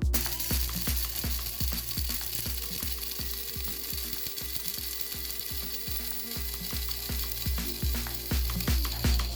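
Bosch electric coffee grinder running steadily with a mechanical rattle, over background music with a steady beat.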